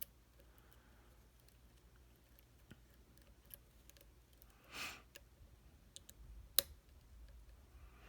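Faint scattered metallic clicks of a lock pick and tension tool working the pins of a padlock, with one sharper click about two thirds of the way in and a short soft rustle just before it.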